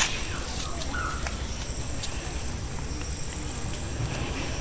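A steady high-pitched insect trill from the surrounding vegetation, with a short bird chirp about a second in and a low rumble underneath.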